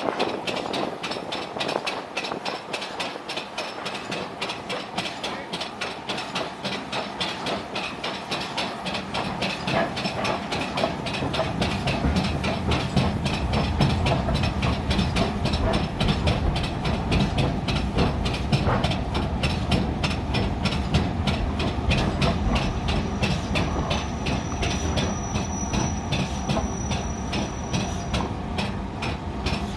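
Steam-hauled train running, with a rapid, regular beat throughout that grows louder and heavier from about eleven seconds in. A faint, thin, high whine runs for several seconds near the end.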